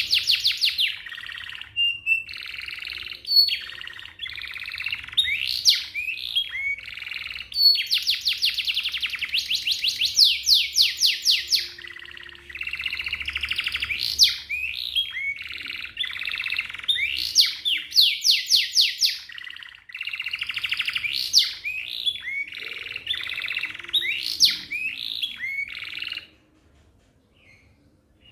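Domestic canary singing a long song of fast rolling trills, rapid repeated notes and sweeping whistles, phrase after phrase, breaking off near the end.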